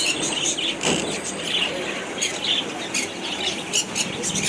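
Many small birds chirping and squawking in quick, overlapping calls over a steady low background hum.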